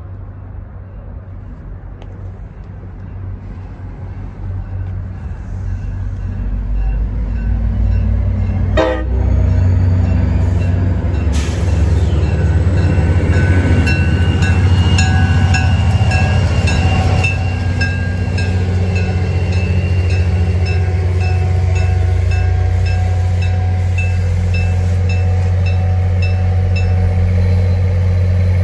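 NJ Transit diesel locomotive hauling a passenger train, its engine rumble growing louder as it approaches and runs past. About nine seconds in a warning begins, with a horn and an evenly repeating bell sounding as the locomotive passes. The sound then settles to the steady rumble of the coaches rolling by.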